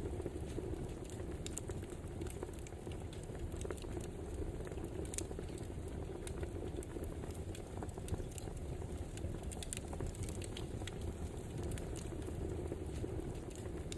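Wood fire burning with a steady low rush and irregular small crackles and pops.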